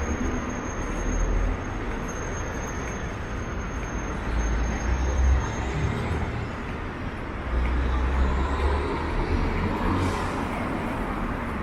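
City street traffic: a steady hum of passing cars and buses, with heavier low rumbles swelling and fading now and then.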